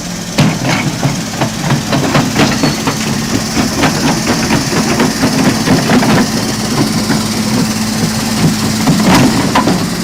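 Heavy machine's engine running steadily with a constant low hum, under frequent irregular metallic clanks and knocks.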